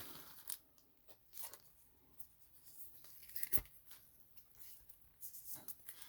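Faint rustling and light clicks of trading cards and pack wrappers being handled, with a sharper tap about three and a half seconds in.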